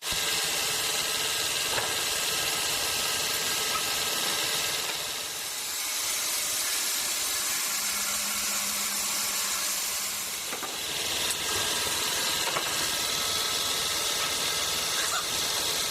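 Sawmill machinery running steadily: a mechanical din with a high hiss that eases off for a few seconds in the middle and comes back about ten seconds in.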